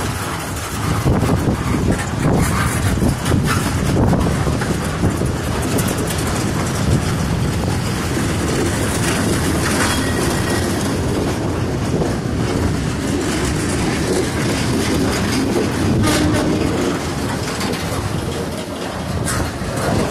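CSX freight cars rolling past at close range: a steady rumble of steel wheels on rail, with many sharp clicks as the wheels cross the rail joints.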